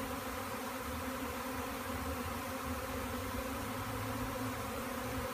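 A large swarm of honey bees buzzing: a steady, dense hum of many bees together.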